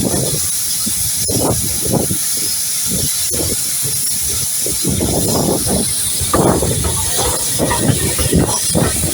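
Steam locomotive hissing steam steadily, with uneven low rumbling swells underneath.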